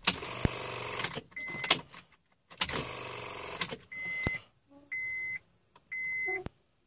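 2004 Honda Accord being keyed to start but not starting: two brief buzzing bursts from the starter, each about a second long, then short dashboard warning beeps about once a second. It is a no-start that boosting the battery with a battery pack gets past.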